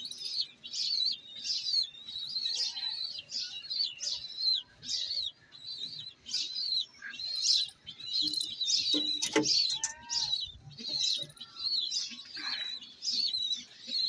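A bird chirping over and over, high short chirps at about two a second, with a brief lower sound about nine seconds in.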